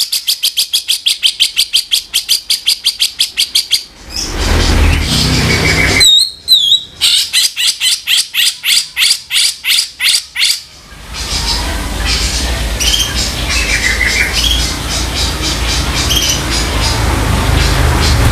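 Cucak jenggot (bulbul) giving harsh, rapid stuttering calls, about eight notes a second, in two long bursts with a pair of whistled glides between them. After the second burst the calls thin out to scattered faint notes over a steady low rumble.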